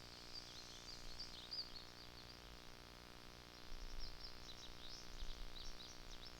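Small birds chirping in quick runs of short high notes, in two bouts of a couple of seconds each.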